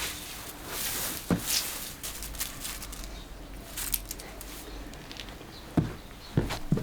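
A few sharp knocks, one about a second in and three close together near the end, over rustling and shuffling noise.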